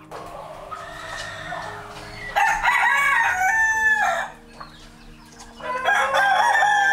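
A rooster crowing twice, each crow a long multi-part call lasting under two seconds, after a fainter call at the start.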